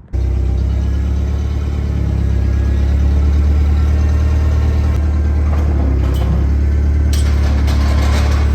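An engine running steadily with a deep, even rumble. It starts abruptly, and some extra rattly noise comes in near the end.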